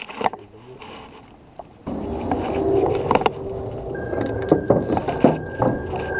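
A jon boat's motor running steadily with a whining tone, along with water and wind noise. It comes in suddenly about two seconds in, after a quieter stretch with a few knocks.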